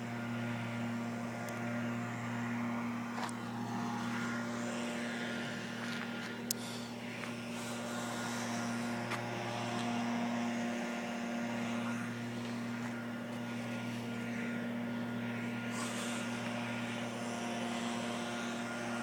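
Steady drone of a piston airplane engine heard from inside the cockpit, on final approach to land.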